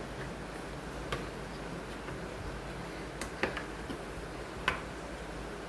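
A few sparse, light clicks, about four spread over several seconds, over a steady low hum.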